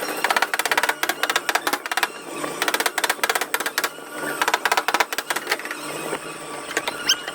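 Rapid runs of light tapping, about ten or more taps a second with short pauses between runs: a tap-down tool being hammered on a car body panel in paintless dent repair.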